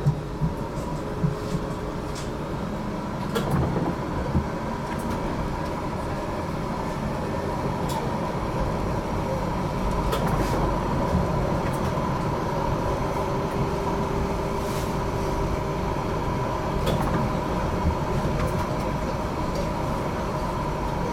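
GTL8 articulated electric tram running between stops, heard from inside the car: a steady rumble of wheels on rail, a steady electric whine and occasional sharp clicks.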